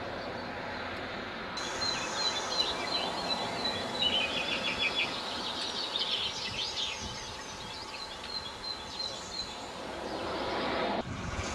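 Small birds chirping and trilling over a steady outdoor background noise. Near the end this cuts off suddenly and a low rumble begins.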